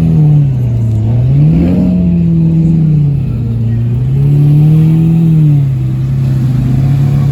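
Car engine revving up and down three times in slow swells, then holding at a steady lower speed.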